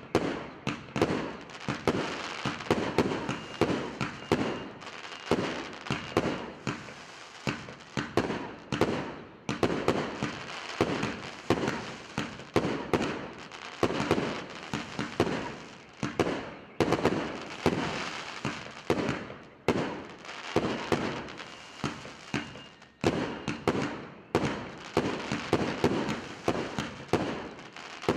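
A 200-shot firework cake of 1.2-inch tubes firing shot after shot in a rapid string, about two loud launches and bursts a second, with crackling between them.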